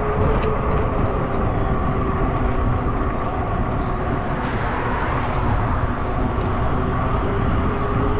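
Wind rushing over the microphone while riding a fat-tire electric bike, with a steady hum from the bike underneath and a brief rise of hiss about halfway through.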